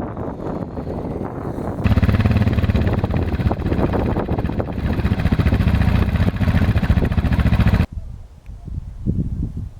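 Suzuki DR650 single-cylinder motorcycle engine running under way on the move. It gets much louder about two seconds in and cuts off abruptly near the end.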